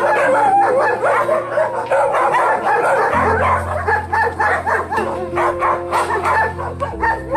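Dogs barking and yipping in quick, overlapping calls throughout, over background music with long held low chords that change twice.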